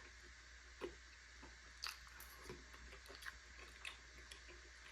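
Faint chewing with scattered soft mouth clicks and smacks, about one a second.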